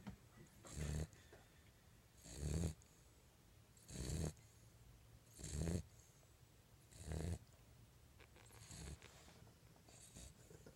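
Puppy snoring in its sleep, a snore about every second and a half, seven in all, the last two fainter.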